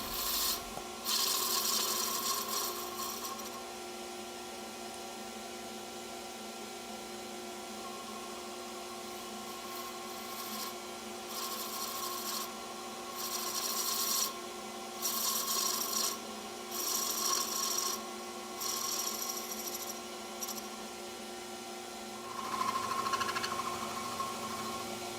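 Wood lathe running with a steady hum while a turning tool cuts a taper into a wooden chisel handle. The cuts come in about eight scraping passes of a second or two each, with a pause of several seconds in the middle.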